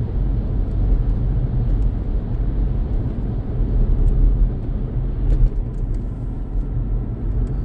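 Steady low rumble of a VW Polo on the move, engine and tyre noise heard from inside the cabin.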